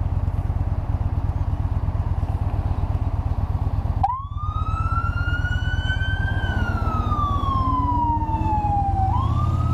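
Yamaha Bolt's air-cooled V-twin running under way with a steady low exhaust rumble. From about four seconds in, a siren wails over it, rising, then falling slowly for a few seconds, and rising again near the end.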